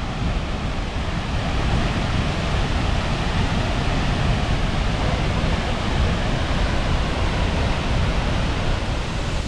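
A large waterfall's steady rush of falling water, a dense, even noise with a strong low rumble.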